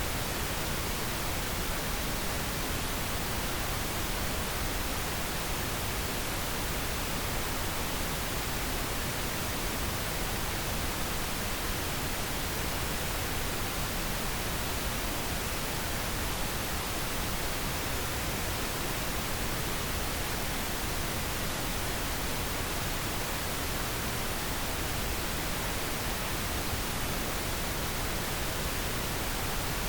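Steady pink noise: an even, unchanging hiss spread across all pitches, played as a sleep aid for babies.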